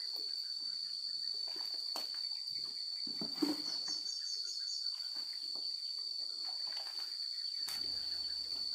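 Insects droning in one steady high-pitched tone, with a bird giving a quick run of about six chirps a few seconds in. A few scattered knocks come from work nearby.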